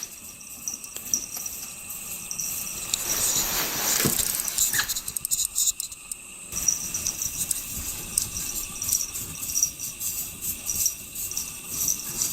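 Steady, high-pitched insect-like chirring. A rushing swell of noise builds a few seconds in and cuts off abruptly partway through.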